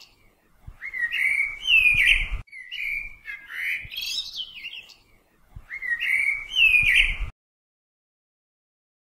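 Birdsong: quick chirping phrases in three runs of about two seconds each, each cut off abruptly. The last two seconds are silent.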